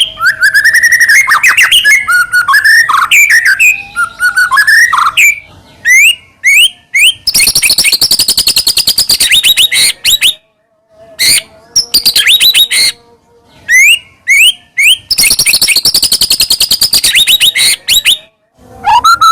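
White-rumped shama singing loudly: varied whistled phrases first, then several long runs of rapid, repeated chattering notes broken by short pauses.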